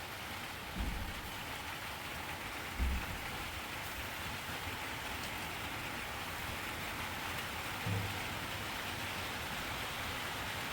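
Steady heavy rainfall, an even hiss of rain with three dull low thumps scattered through it.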